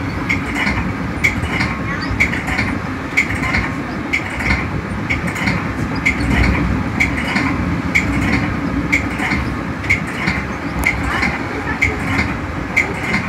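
Metra commuter train running at speed, heard from inside its cab car: a steady rumble of wheels on rail with a regular clicking about twice a second.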